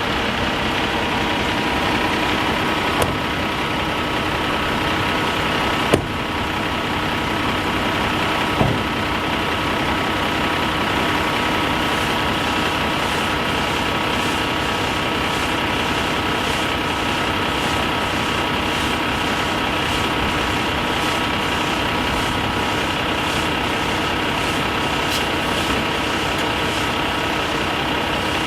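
Kenworth T880 truck's diesel engine running steadily at idle, with a few short sharp clicks in the first nine seconds.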